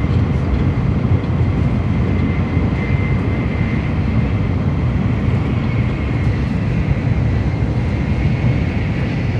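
Steady interior running noise of an N700A Shinkansen train at about 285 km/h: a constant low rumble with a faint high whine.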